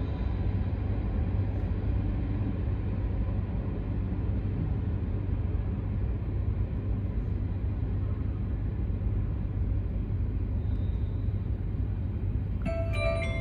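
Steady low rumble of passenger coaches rolling slowly past alongside. Near the end, a chime of several clear notes sounds, the signal before an Arabic on-board announcement.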